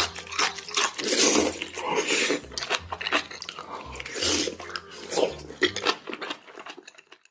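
Close-miked eating: crunchy bites and chewing with sharp crackles, fading out near the end.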